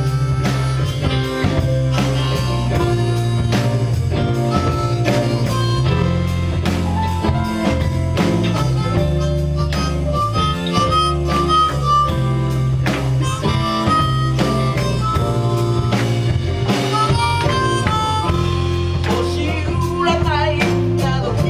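A band playing an instrumental passage of a soul song: a lead melody over guitar, bass and a steady drum beat.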